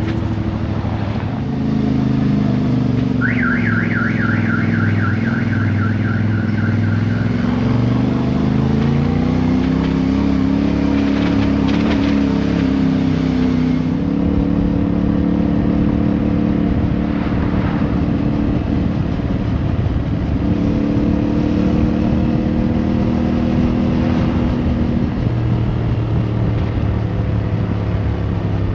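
Motorcycle engine running on the road, its pitch rising and falling with throttle and gear changes. For a few seconds near the start, a fast repeating alarm-like chirp, about three a second, sounds over it.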